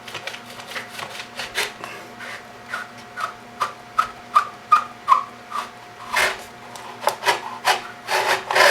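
Insulated hookup wire rubbing and scraping as it is worked through a hole in a plastic robot enclosure: a run of short strokes, about two to three a second, several with a brief squeak, and a rougher cluster near the end.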